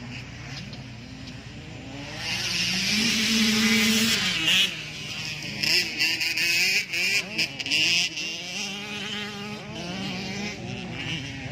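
Motocross dirt bike engines revving, their pitch rising and falling as the bikes accelerate and shift; loudest between about two and five seconds in.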